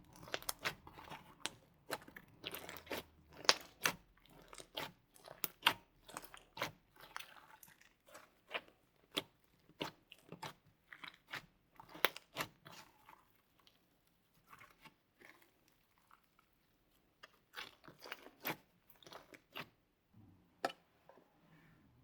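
Slime with clay mixed into it being squished and worked by hand, giving irregular crackling pops and clicks. They come thick and fast at first, thin out midway, bunch up again, then die away near the end.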